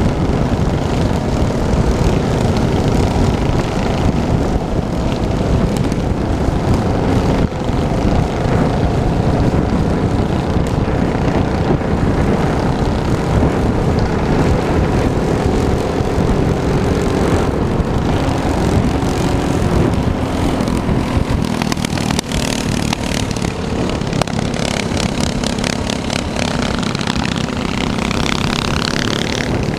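Minibike's small engine running under way, its pitch drifting up and down with the throttle, under a heavy, steady rumble of wind noise.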